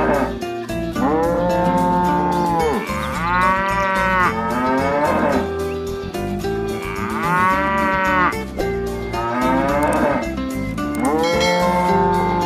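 Cow moos, a series of about five or six long calls, each rising and then falling in pitch, over background music. These are sound effects dubbed over toy figurines.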